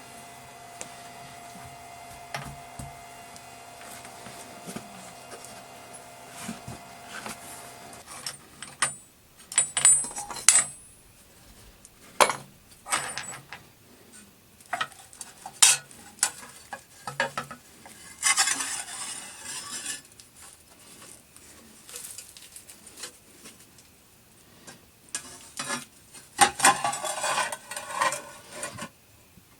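Metal tools and brass plate being handled on a workbench: scattered clinks and taps with brief ringing, and a few short scraping passes. A faint steady hum stops about eight seconds in.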